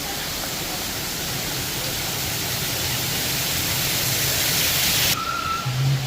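Steady rushing noise that slowly grows louder, then cuts off abruptly about five seconds in.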